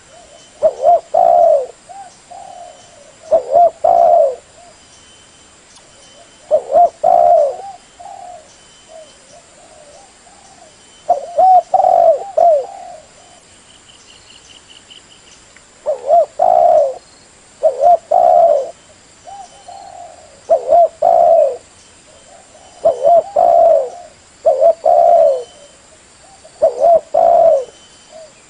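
Spotted dove cooing, a phrase of two or three quick coos repeated about every two to three seconds, with fainter coos in between.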